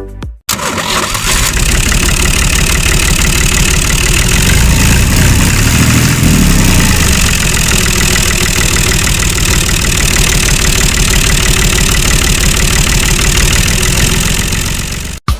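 An engine running steadily with a rapid, even firing beat, swelling briefly in the middle; it starts and stops abruptly.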